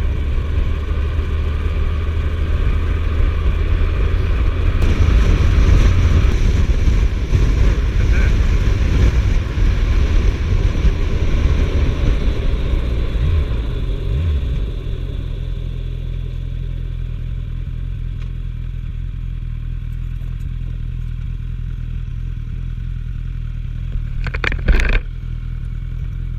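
Suzuki GSF1250S Bandit's inline-four engine running with wind noise while riding. About halfway through it drops to a quieter, steadier running sound. There is a brief knock near the end.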